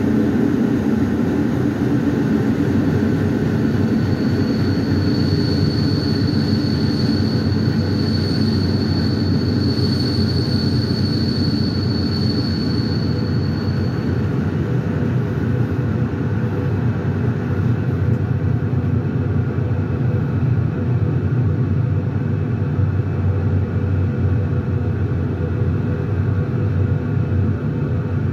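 Passenger train rolling slowly into a station, heard from inside the last carriage: a steady rumble of wheels on track. A thin high whine runs from about four seconds in until about fourteen seconds.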